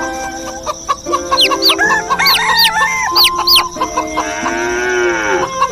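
A rooster crowing with small birds chirping in quick high sweeps, a morning farmyard sound.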